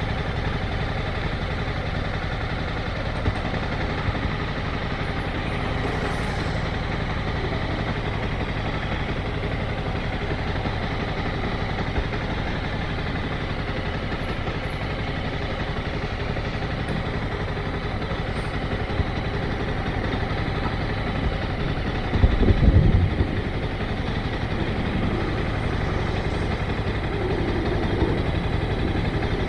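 Motorcycle engine running at low speed, a steady hum, with a brief louder low surge about three quarters of the way through.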